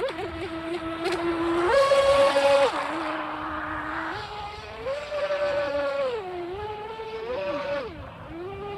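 RC mini boat's 2040 brushless motor whining, its pitch stepping up and down between held levels as the throttle is opened and eased back, loudest at a burst of throttle about two seconds in.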